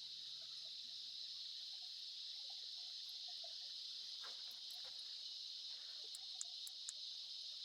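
Steady high-pitched chorus of insects, an unbroken shrill buzz, with a few faint ticks in the second half.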